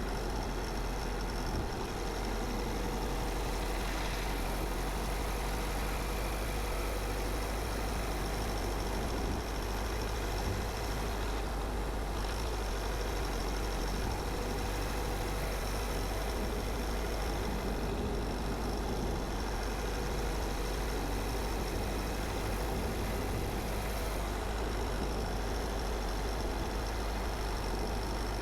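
Car driving at a steady pace: a constant deep rumble of engine and tyres with an even road-noise hiss over it.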